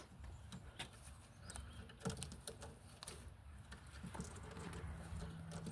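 Faint scattered taps and scuffles of a pigeon moving about and pecking, with a low steady hum from about four and a half seconds in.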